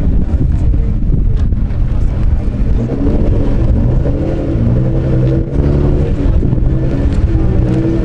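Car engine running at idle: a low, steady drone whose pitch shifts slightly a few times.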